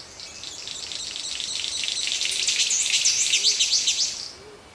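Chorus of forest birds calling at dawn, a dense mass of high chirps and rapid up-and-down whistles that swells in, peaks about three seconds in and fades away near the end.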